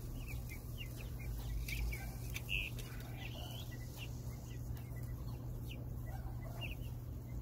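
Birds chirping: many short, high chirps and calls scattered throughout, over a faint, low, steady hum.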